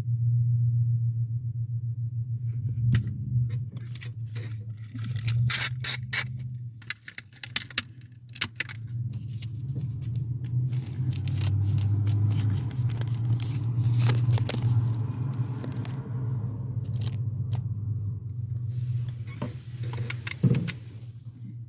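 Scraping, clicking and rattling of plastic parts and tools being handled while a replacement actuator is fitted, dense from a few seconds in until past the middle, with another sharp knock near the end, all over a steady low hum.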